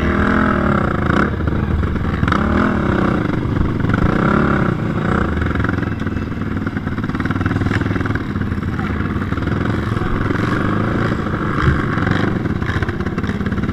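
Racing quad engines running hard. The pitch rises and falls several times in the first few seconds as the throttle is worked, then holds steadier, with a few sharp clattering knocks.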